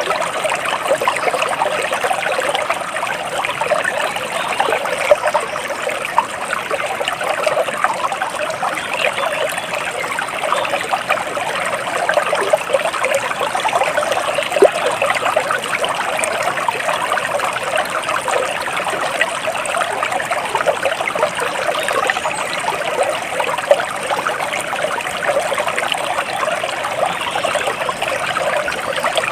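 Flowing water trickling steadily, like a small stream, with no pauses.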